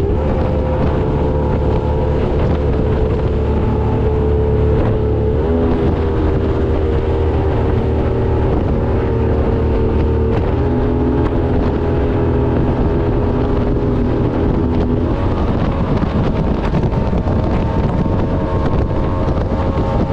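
Boat engine running under way, its note shifting a few times, about five, ten and fifteen seconds in, with wind on the microphone.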